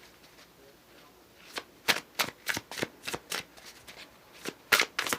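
A deck of tarot cards being shuffled by hand. About a second and a half in, a quick, irregular run of sharp card snaps begins, several a second.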